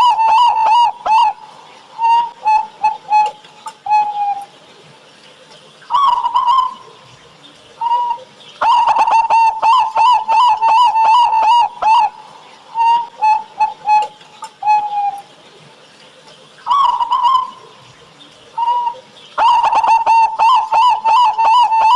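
Zebra doves (local Javanese perkutut) cooing in their repeated song. Each phrase is a fast rattling run of coos followed by a few separate, drawn-out notes, and the phrase comes round again about every ten seconds.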